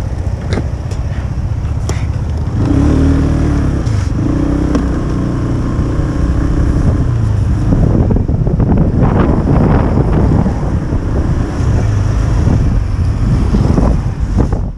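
Motor scooter's small engine running while riding, its pitch rising and falling over a heavy low rumbling noise. The sound cuts off abruptly at the end.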